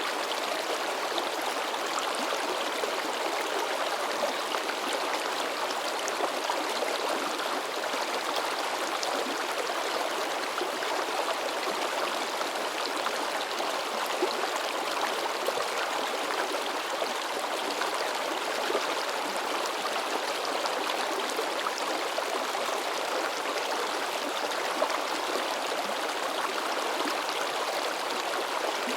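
A shallow river babbling and splashing over rocks: a steady rush of water with small bright splashes throughout.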